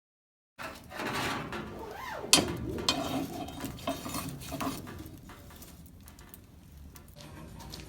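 Metal tools and stock clinking and clattering in a blacksmith's forge: a handful of irregular, ringing metallic knocks, the loudest about two seconds in, growing quieter after the first five seconds.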